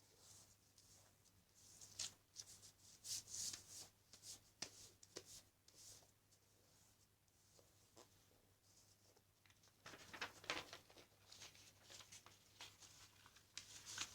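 A sheet of paper being folded and creased into a paper airplane: short, irregular rustles and crinkles, busiest a couple of seconds in and again in the last few seconds.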